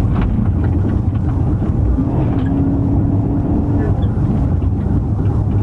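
Patrol car's engine and road noise heard inside the cabin while driving in pursuit: a loud, steady drone with a held engine tone.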